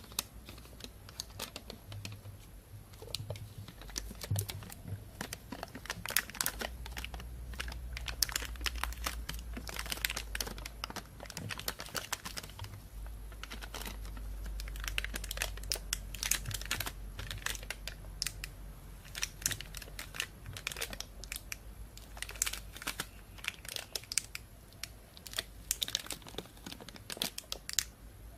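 Thin plastic bag being handled, crinkling and rustling in uneven clusters of sharp crackles.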